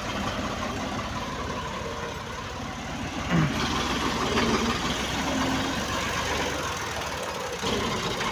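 Tractor's diesel engine running steadily with a closely spaced rhythmic beat; its note grows brighter about halfway through and changes again near the end.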